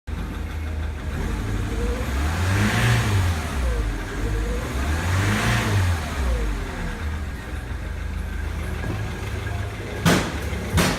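Ford Mondeo Mk3 2.0 TDCi (FMBA) four-cylinder diesel engine idling and revved twice, each rev rising and falling back to idle, then idling steadily. Two sharp knocks near the end.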